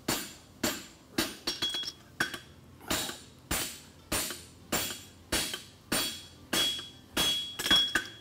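Hand hammer striking hot 1/2 × 1 1/4 inch steel bar on an anvil in a steady rhythm, about one ringing blow every 0.6 s, as a farrier bumps (upsets) and narrows the branch of a horseshoe. There is a quick cluster of lighter taps about a second in and again near the end.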